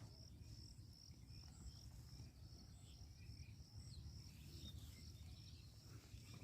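Near silence: insects chirring, a high pulsing trill that runs steadily, over a faint low background rumble.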